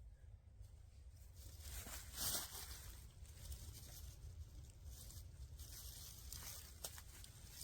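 Faint rustling and scraping, with one louder rasp about two seconds in and a few small clicks.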